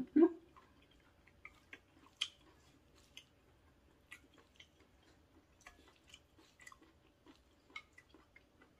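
Close-miked chewing of cold janchi guksu, thin wheat noodles with julienned vegetables: quiet, scattered soft wet clicks and small crunches.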